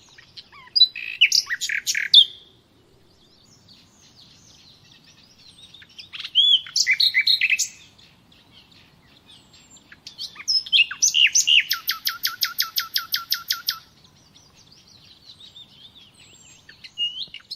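A songbird singing loud, varied phrases with pauses between them. The last and longest phrase ends in a fast run of identical repeated notes lasting about three seconds.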